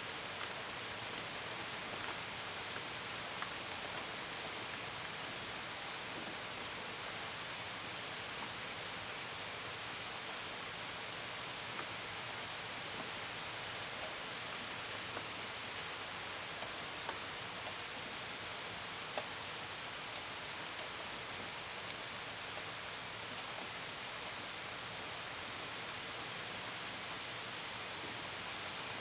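Steady gentle rain, with scattered drops tapping sharply against a window and gutter, and faint crickets chirping in a regular pulse.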